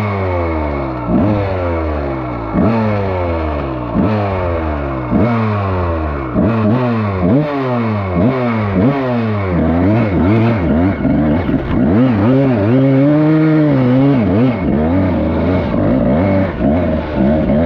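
Dirt bike engine being revved in repeated throttle blips, about one every second and a bit, each rising sharply and then dying away. Later the revs are held higher, with one slow rise and fall.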